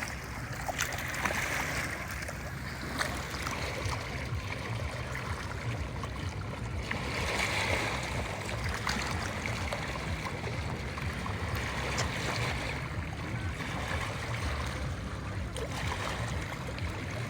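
Steady rushing of water with a low rumble, and a few faint clicks.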